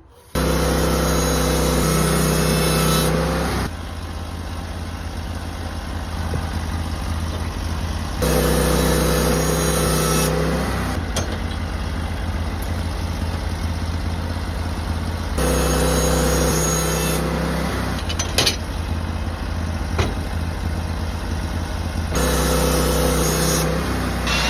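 Sawmill engine running hard while the saw cuts through an old Western red cedar dock pole. Its sound alternates every few seconds between a steady, even tone and a rougher, lower run, with a few sharp clicks in the second half.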